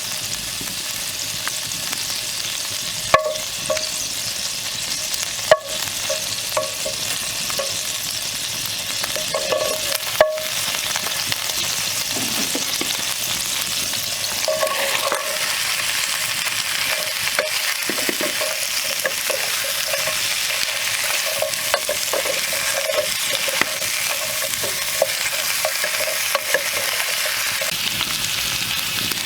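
Food sizzling as it fries in a pan while being stirred, with a steady hiss and repeated short metallic scrapes. Three sharp clicks stand out about 3, 5.5 and 10 seconds in.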